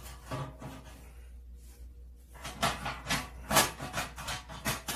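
Firewood knocking and clattering as logs are loaded into a homemade wood-burning stove: fairly quiet at first, then a quick run of sharp knocks over the last two and a half seconds.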